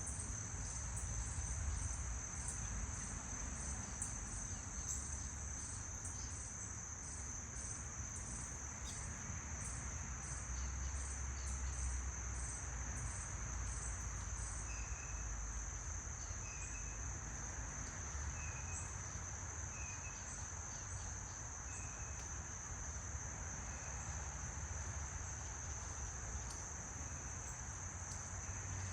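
A steady, high-pitched insect chorus trills without a break. A short chirp repeats about every second and a half through the middle, over a low rumble.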